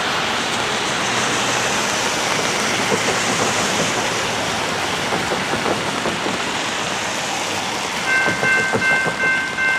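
A steady rushing noise of a train approaching. About eight seconds in, a railroad warning signal starts: a chord of several steady high tones that pulses about twice a second.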